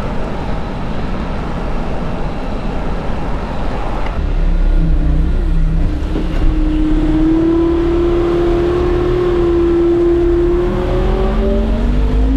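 Bobcat skid steer's diesel engine running under work, its revs climbing about four seconds in, holding high, then dipping briefly and rising again near the end.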